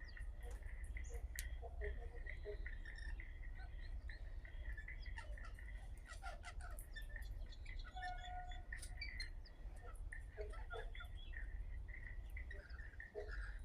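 Wild birds calling: many short chirps and whistles scattered throughout, over a steady high drone and a low rumble.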